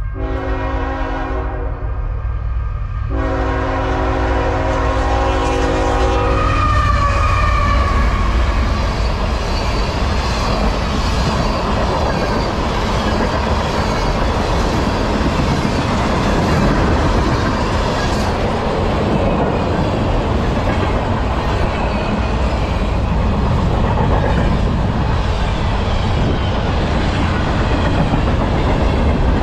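Freight locomotive's air horn sounding as the train nears a level crossing: a blast of about two seconds, then a second of about three and a half seconds that ends about seven seconds in. After it, a long mixed freight train of tank cars and covered hoppers rolls close past with a steady rumble and clatter of steel wheels on the rails.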